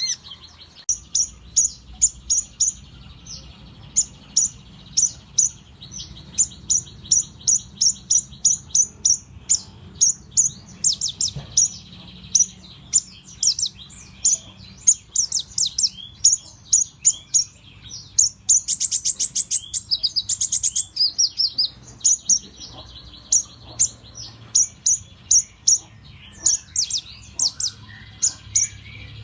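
A kolibri ninja (konin), a small sunbird, chirping in a quick series of short, high notes, with a fast rattling trill about two-thirds of the way through.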